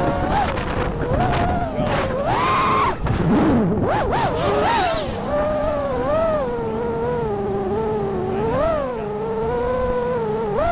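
A 5-inch FPV quadcopter's brushless motors whine, the pitch rising and falling quickly and repeatedly as the throttle changes in flight.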